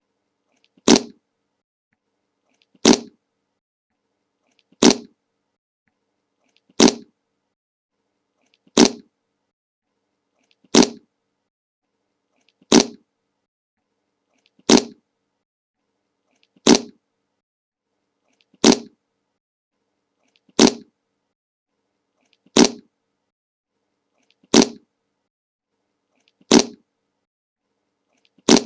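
A fart sound effect: the same short fart played over and over, about once every two seconds, with silence between.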